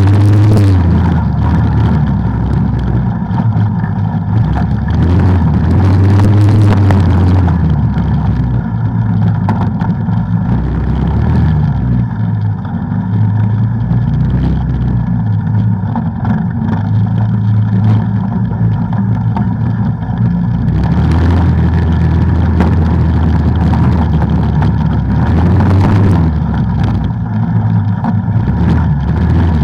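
Off-road vehicle engine running while riding a trail, its pitch rising and falling repeatedly with the throttle.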